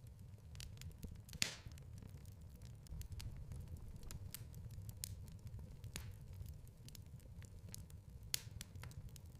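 Wood fire burning in a fireplace: a low steady rumble with scattered small crackles, and two sharper, louder pops, one about a second and a half in and one near the end.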